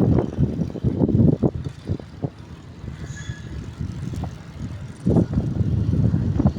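Wind buffeting the microphone and vehicle rumble while riding, rising and falling in gusts and easing off in the middle, with a faint short high chirp about three seconds in.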